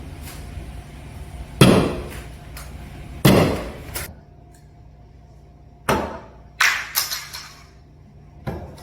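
Six sharp clinks and knocks, spread over several seconds, each ringing briefly, over a low steady hum.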